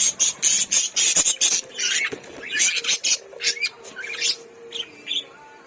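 Lovebirds chattering: rapid high-pitched squeaks and chirps, packed close together in the first couple of seconds, then coming in shorter spaced calls.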